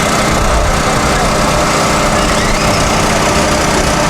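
A steady engine or motor drone running evenly throughout, with faint voices in the background.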